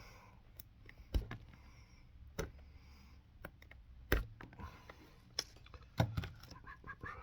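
Irregular knocks and clicks from handwork on a boot at a shoe-repair bench, about half a dozen sharp ones with faint rustling between.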